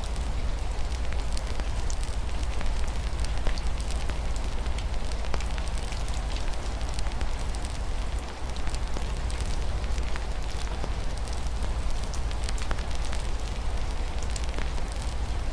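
Wood fire crackling in a fireplace, with frequent small sharp pops over a steady low rumble, and a steady hiss of rain.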